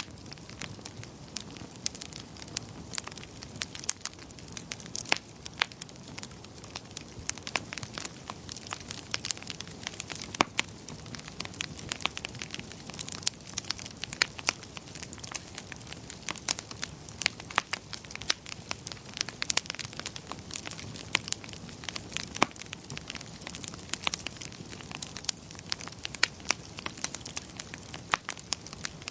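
Wood fire burning in a fireplace: irregular sharp crackles and pops, several a second and of varying loudness, over a soft steady hiss of the flames.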